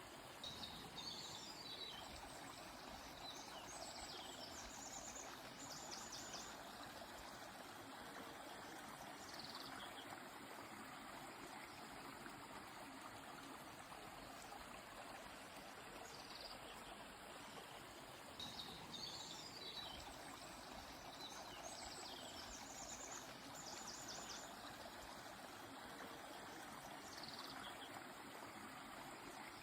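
Steady rushing of a flowing river, with short high bird chirps and song phrases over it in several brief bouts.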